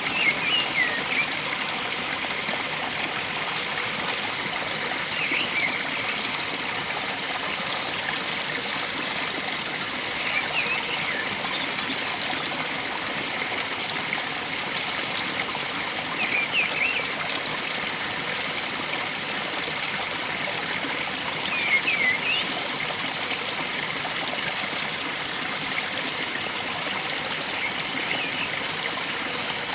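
Stream water flowing and trickling steadily, with a bird calling in short bursts of quick chirps about every five or six seconds.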